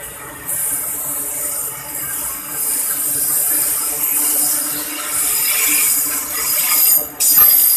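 Container freight train wagons rolling past on the rails: wheels and bogies clattering over the track under a steady high hiss, which briefly dips about seven seconds in.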